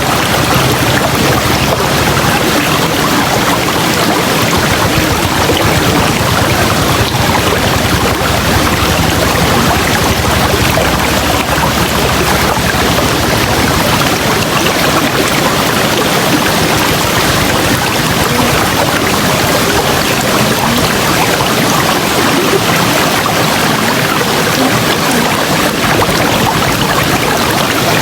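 River water rushing steadily over rocks, a constant dense roar of flowing water.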